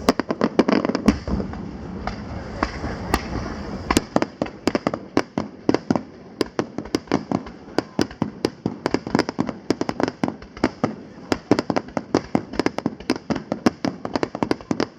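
Aerial fireworks bursting in a rapid barrage: deep booms over the first few seconds, then a fast string of sharp bangs and cracks, several a second.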